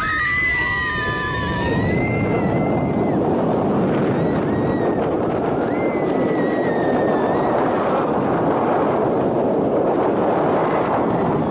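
Steady, loud rushing wind noise on the microphone. A high, wavering scream fades out over the first couple of seconds, and a fainter high cry comes about six seconds in.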